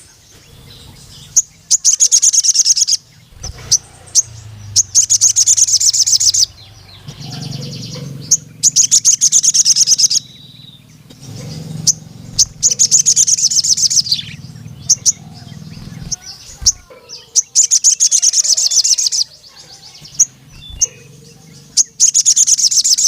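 Male crimson sunbird (sogon) singing. About six loud bursts of very fast, high-pitched chattering trills, each a second or two long, come a few seconds apart, with single sharp chirps in between.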